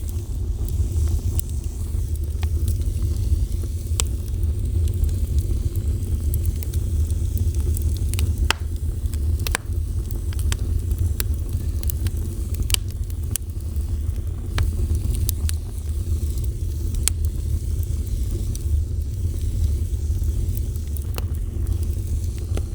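Wood fire burning with a steady low rumble and irregular sharp crackles and pops from the burning wood.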